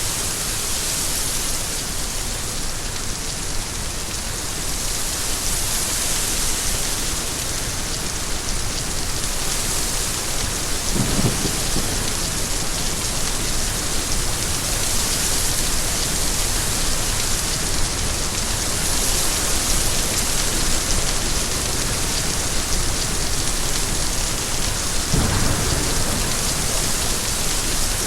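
Steady heavy rain falling, an even hiss with no pauses. Two brief low thumps come through, about a third of the way in and again near the end.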